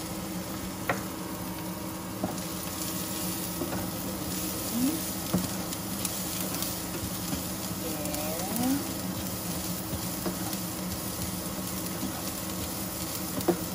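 Onions and chopped kangkong (water spinach) stems sizzling in a nonstick frying pan as they are stirred with a spatula, with a few sharp clicks of the spatula against the pan over a steady low hum.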